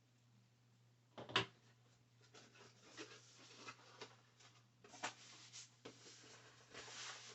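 Packaging being handled during an unboxing: a single knock about a second in, then faint intermittent rustling and clicks of cardboard and paper being moved.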